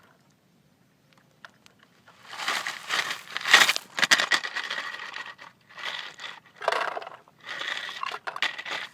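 Gravel crunching and scraping in irregular bursts, starting about two seconds in after a short quiet spell.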